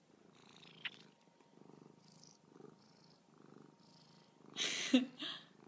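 Domestic cat purring close to the microphone, in soft low pulses about once a second. A small click comes about a second in, and a brief louder breathy rustle comes near the end.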